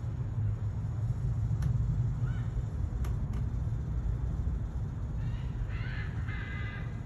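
Several short, harsh animal calls, bunched near the end, over a steady low rumble, with a few sharp clicks earlier.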